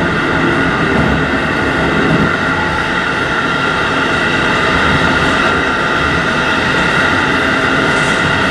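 JR Hokkaido 711 series AC electric multiple unit running along the line, heard from inside the train: a steady rumble of wheels on rail with a constant hum of several high tones over it.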